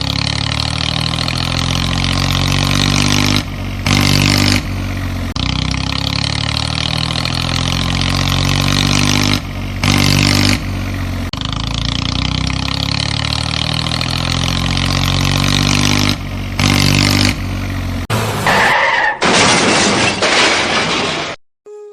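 A tractor-style engine running steadily, broken by several abrupt cuts where the clip changes. Near the end there is about two seconds of dense hiss-like noise before the sound stops suddenly.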